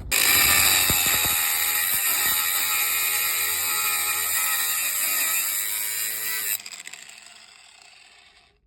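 A power tool's electric motor running with a steady high whine, then switched off about six and a half seconds in and spinning down with a falling tone.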